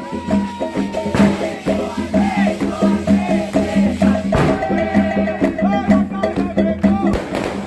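Candomblé ritual music: percussion with a shaker rattle and sung chanting, with a sharp stroke now and then.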